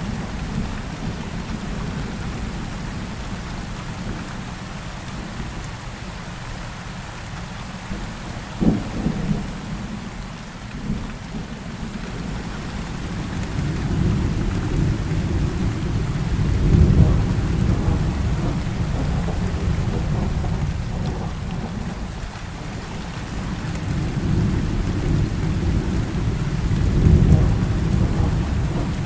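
Heavy rain falling steadily, with rolling thunder rumbling low. A short sharp crack comes about nine seconds in, and the rumble swells twice, once in the middle and again near the end.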